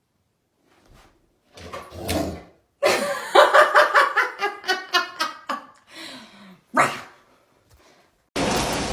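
A dog vocalising in a quick series of short pitched calls. A steady rushing noise cuts in near the end.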